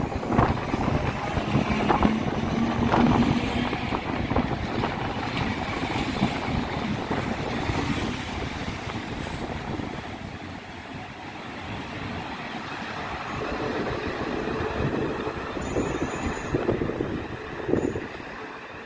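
A passenger train running through the station: rumble and wheel-on-rail clicks. Wind buffets the microphone.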